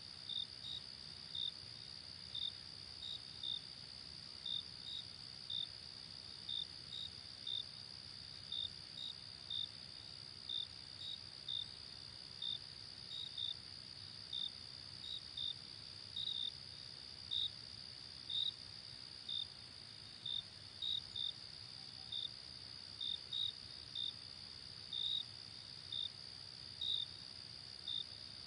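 Crickets chirping: short chirps about two a second, often in pairs, over a steady high insect trill and a faint low hiss.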